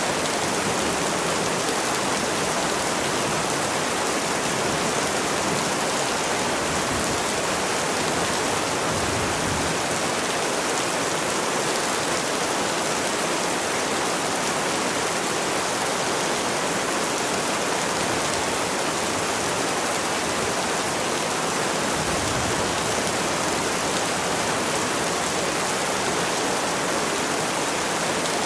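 Steady rainfall, an even hiss of rain falling on surfaces without pause or change.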